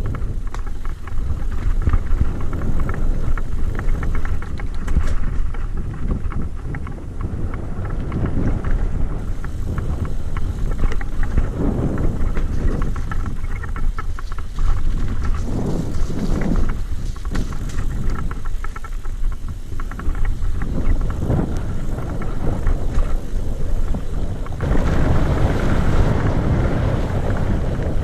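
A mountain bike rattling and knocking as it rolls over rough trail, with wind rumbling on the microphone. The wind noise grows louder and fuller near the end.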